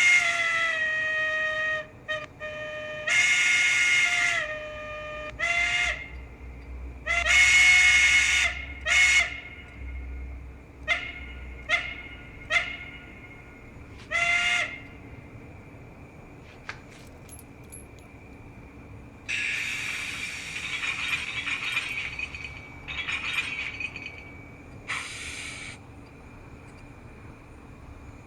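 Steam sound decoder in a Hornby 0-4-0T model locomotive playing a steam whistle: several long blasts, each dropping slightly in pitch at its end, then four short toots. After a pause it plays a few bursts of steam hiss.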